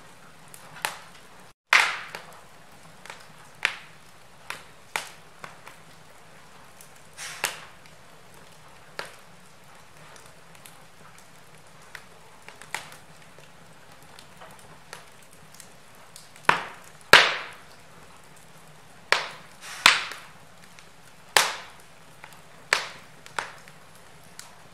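Wood fire in a fireplace crackling: sharp pops at irregular intervals over a soft steady hiss, with the loudest pops in the second half. The sound cuts out completely for a split second near the start.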